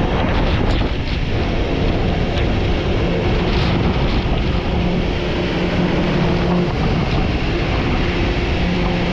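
Tour boat's engine running steadily with a low hum, under heavy wind noise on the microphone and the rush of water.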